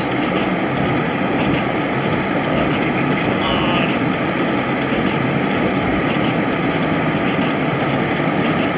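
Steady in-cabin engine and road noise of a V6 Dodge Challenger driving slowly through snow.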